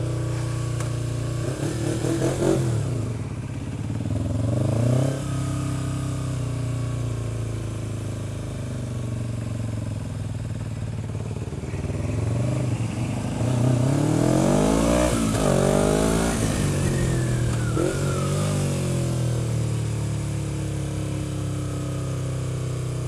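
Motorcycle riding in traffic: a steady engine hum with wind rushing over a helmet-mounted microphone, and an engine note whose pitch rises and falls several times.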